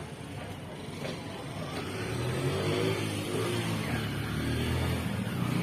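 A motor vehicle's engine running, a low rumble that grows louder about two seconds in and stays up.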